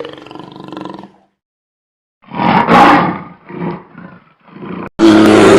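An animal roaring: a string of loud, rough roars after a second-long pause, with another loud roar starting near the end.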